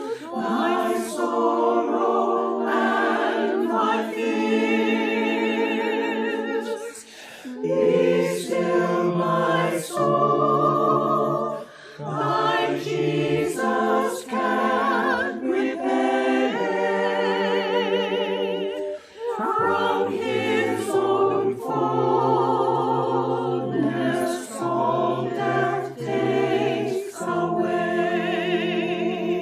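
Unaccompanied choir singing, in long held phrases with clear vibrato and short breaks between them.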